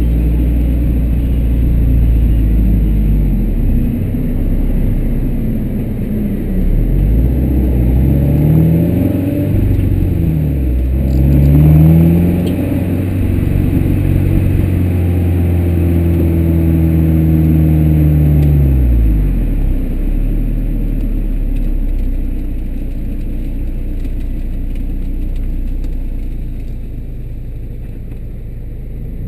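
Car engines running hard on the road, the pitch climbing and falling through gear changes with a heavy road and wind rumble underneath: the Bugatti Veyron Vitesse's quad-turbo W16 together with the camera car's own engine. Loudest about twelve seconds in, settling to a steadier low drone in the second half.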